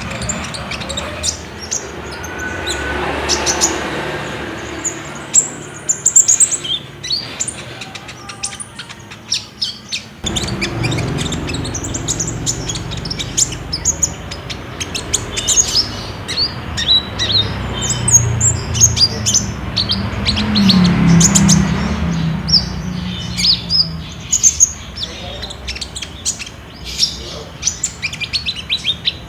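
Several kolibri ninja sunbirds chirping and trilling in quick, high, sharp notes, a group-song lure recording, over a low background rumble.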